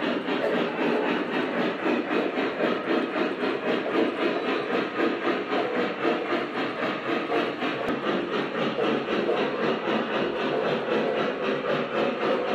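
Model train running on a layout's track: a steady motor whir and wheel-on-rail rumble with a fast, even flutter.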